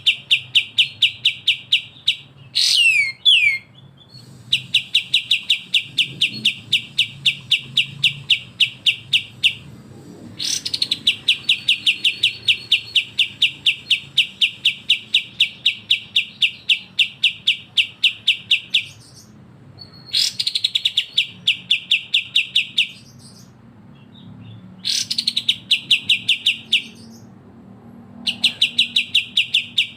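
Recorded bulbul song of kapas tembak and cucak jenggot in rapid 'besetan' style: long runs of sharp repeated notes, about six a second, broken by short pauses. A few quick falling whistles come about three seconds in.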